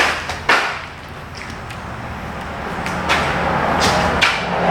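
A few sharp knocks and some scraping and rustling as car parts and lines are handled and worked into place, over a steady low hum. The scraping grows toward the end.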